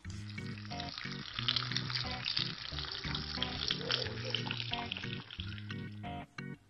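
Breaded, stuffed chicken breasts sizzling as they fry in hot oil in a pan, a steady hiss that stops about six seconds in. Background music plays throughout.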